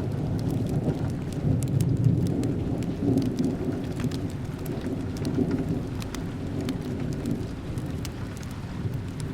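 Steady rain with a low rumble of thunder that slowly dies away. Scattered sharp crackles from a wood fire sound throughout.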